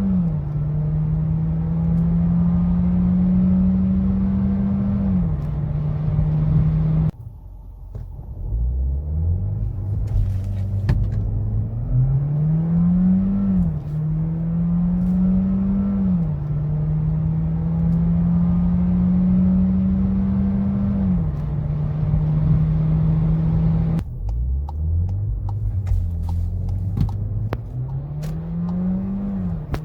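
Skoda Karoq's 1.5 TSI four-cylinder turbo petrol engine accelerating hard. Its note climbs through each gear and drops quickly at each DSG upshift. The sound breaks off abruptly about seven seconds in, and again near the end, each time followed by a fresh run starting from low revs.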